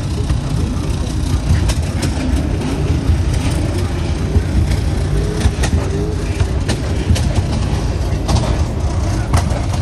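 Steady low vehicle rumble, with scattered clicks and knocks throughout and faint voices in the middle.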